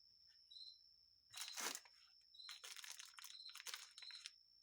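Faint crinkling and rustling of parts packaging being handled in a carburetor rebuild kit, a short burst about a second and a half in and a longer run of crackles from about two and a half seconds. Crickets chirp faintly and regularly underneath.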